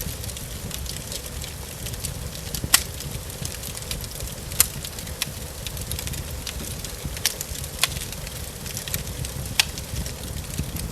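Wood fire burning in a fireplace, crackling with half a dozen sharp pops scattered irregularly over a steady hiss and a low rumble.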